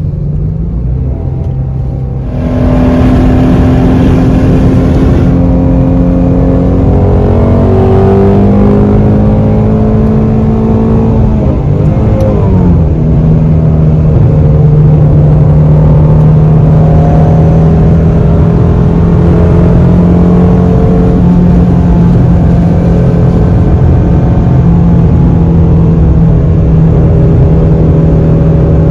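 A 2020 Shelby GT350's 5.2-litre flat-plane-crank V8 gets on the throttle about two seconds in and pulls hard. It changes gear around twelve seconds in, then settles into a steady, loud cruising drone.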